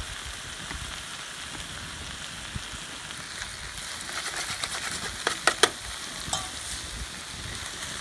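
Chicken and vegetables sizzling steadily in a metal pan. A little past the middle come a few sharp clicks of metal tongs against the pan as the food is stirred.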